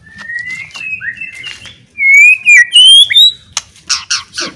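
White-rumped shama singing loudly: rising whistled phrases, loudest about two seconds in, then a run of sharp, clipped notes near the end.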